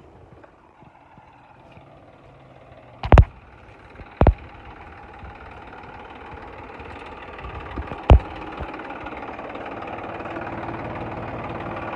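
Tractor engine running, growing steadily louder, with three loud sharp knocks: two close together early on and one later.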